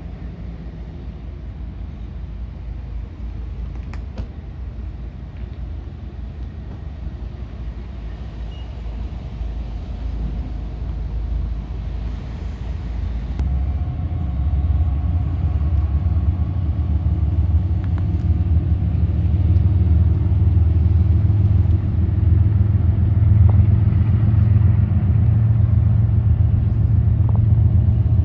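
Union Pacific freight train rumbling by, growing steadily louder, with a diesel locomotive's engine drone strengthening from about halfway in.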